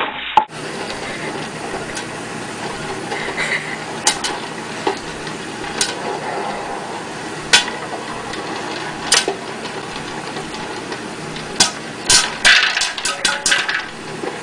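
Electric popcorn popper with a clear dome lid running steadily while single kernels pop every second or two, the popping quickening into a rapid cluster near the end.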